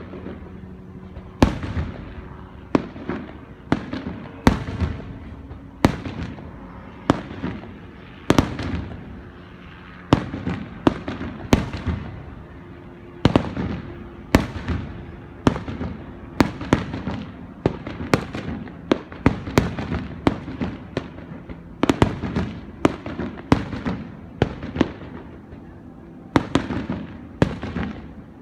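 Aerial fireworks bursting one after another in a continuous display: sharp bangs about once a second, each trailing off in a short rumble.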